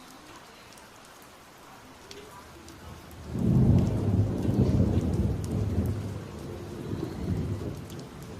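Steady rain falling, with a loud thunderclap rolling in about three seconds in, a deep rumble that slowly dies away.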